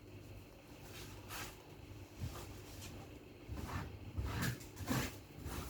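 Several short rustles and knocks of things being handled, most of them in the second half, over a low steady hum.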